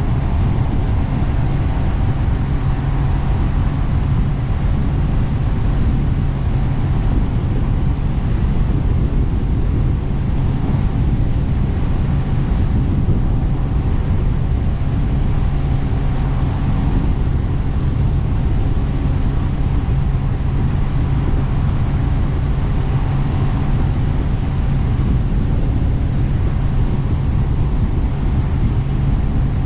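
Jet boat engine running steadily under way, a constant low drone with no change in speed.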